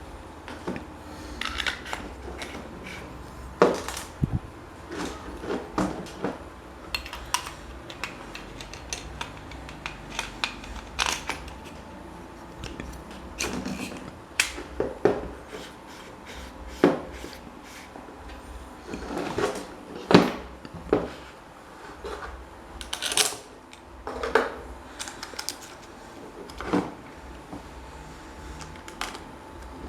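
Irregular clinks, taps and knocks of small metal parts and hand tools being handled, a few of them ringing briefly, over a faint steady low hum.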